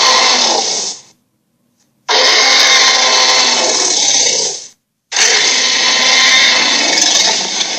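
Electronic dragon toy playing its sound effect through its small speaker, three times in a row. Each play is a harsh, rough burst of about two and a half seconds, with short silences between, and the last starts to fade near the end.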